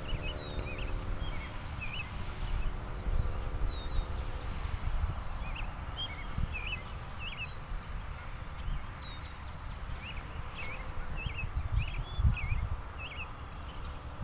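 Small songbirds chirping in short, repeated twittering notes and quick downward slurs, over a steady low rumble.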